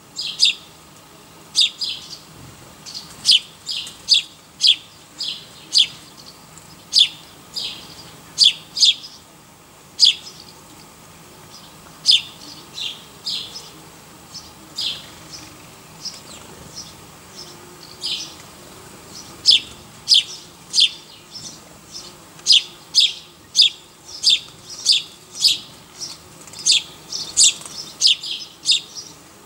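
A small bird chirping over and over: short, sharp chirps in irregular runs, sometimes several a second, with a few short lulls.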